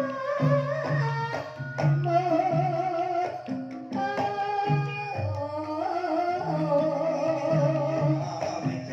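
Banyumasan gamelan ensemble playing a gending in ebeg style: a wavering sung melody over repeated low struck notes and a steady drum pulse.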